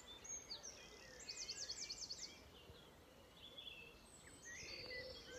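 Faint birdsong from several birds over quiet outdoor background noise. About a second in there is a quick run of high, repeated notes, followed by scattered shorter chirps.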